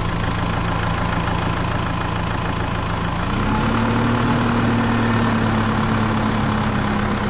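Tractor engine running steadily with a low hum, stepping up slightly in pitch about three seconds in as it picks up speed.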